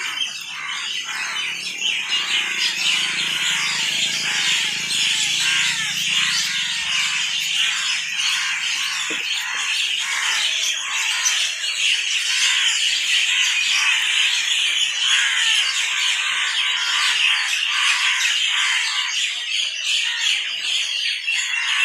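Many birds chirping and squawking at once in a dense, continuous chorus of overlapping short calls.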